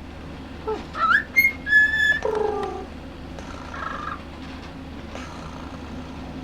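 Cockatiel whistling: two quick rising chirps about a second in, a short held whistle note, then a falling two-note whistle. Softer raspy sounds follow, of the kind the owner calls purrs.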